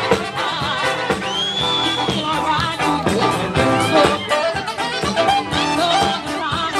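A live band playing a song, with a steady drum beat under pitched instruments and some singing.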